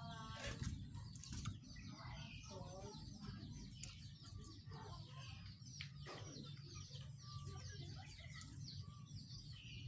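A rengganis songbird singing busily: a fast, unbroken run of short chirps and whistled notes, over a steady high-pitched whine and a low background hum.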